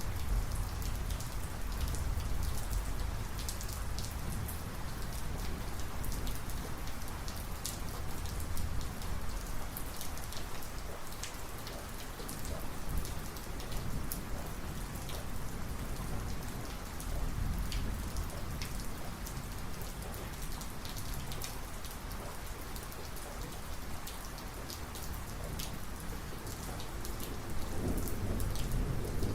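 Heavy thunderstorm rain falling steadily, with many separate drops striking hard surfaces. A low thunder rumble rolls under it at the start and builds again near the end.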